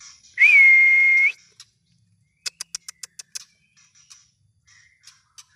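Young white-rumped shama (Medan murai batu, still in spotted 'trotol' plumage) singing: one loud, level whistle held for about a second, then a quick run of about seven sharp clicking notes and a few softer chips.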